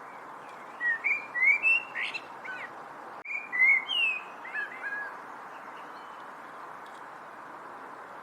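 A songbird singing two short phrases of quick, gliding whistled chirps, a moment apart, over a steady background hiss.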